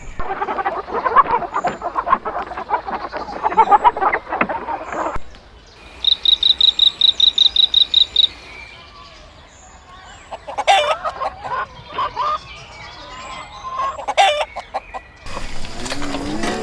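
Chickens clucking and calling in a busy run for the first five seconds, then a quick string of about a dozen high chirps. Later come more scattered calls, and the sound changes abruptly near the end.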